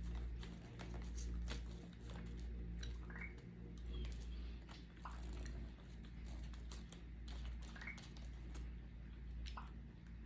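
Chewing and the small clicks of eating, over a steady low electrical hum. Two brief rising squeaks come about three and eight seconds in.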